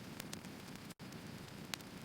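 Firewood burning: a low steady rush of flame with scattered sharp crackles and pops. The sound cuts out for an instant about halfway.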